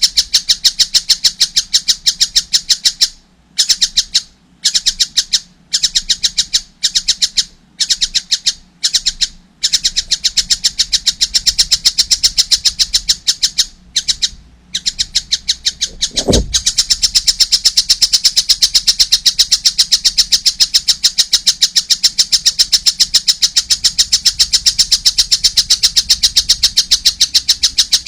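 A young kingfisher chick (tengkek buto) calling continuously in a rapid, high-pitched chatter of evenly repeated notes, broken by short pauses in the first third. About 16 seconds in there is a single low thump.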